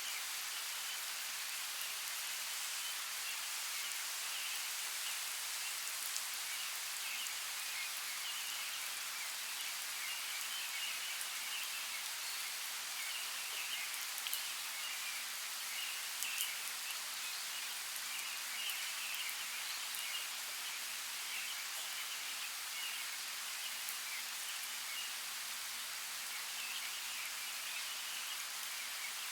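Steady, even hiss of water noise, with faint high chirping throughout and a few soft clicks.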